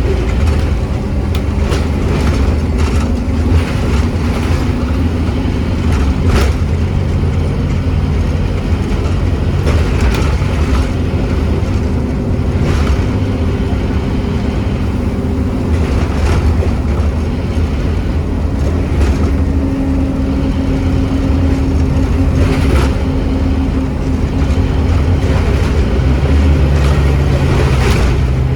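Scania N270UD OmniCity double-decker bus heard from on board: its diesel engine running under way with rattles from the body. It settles to a steady idle near the end.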